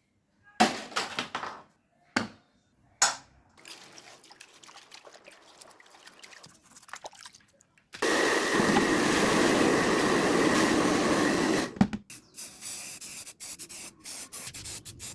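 A few sharp clicks in the first three seconds, then a steady hissing spray that lasts about four seconds and cuts off, followed by scattered small clicks.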